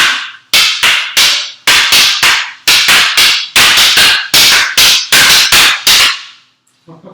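Escrima sticks clacking together in the Heaven 6 double-stick drill: a fast, regular run of sharp wooden strikes, about three a second, that stops about six seconds in.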